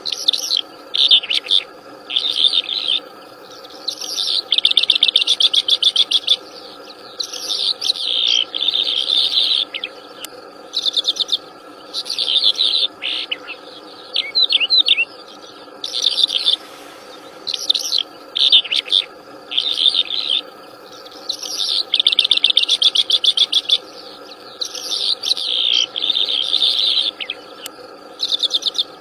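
A wild songbird singing loudly in short, fast trilled and chattering phrases repeated every second or two, over a steady background drone of insects.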